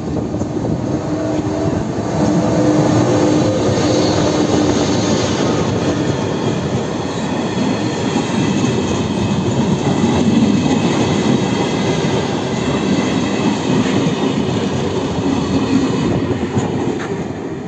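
Passenger train hauled by a ZSSK class 162 electric locomotive passing close by: a steady rumble of wheels on rail, louder from about two seconds in as the locomotive draws level, easing off near the end as the train moves away.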